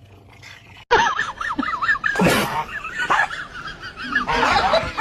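Animal calls with a rapidly wavering pitch, starting abruptly about a second in and repeating through the rest, with a few sharp noises among them.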